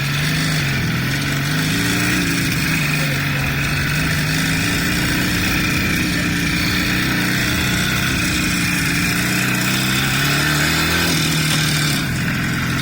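A motor vehicle's engine running steadily, its pitch rising and falling gently with speed, then settling a little lower and steadier near the end.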